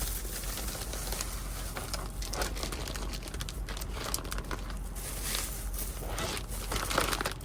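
Irregular crinkling and clicking of packaging being handled during food prep, with a steady low hum underneath.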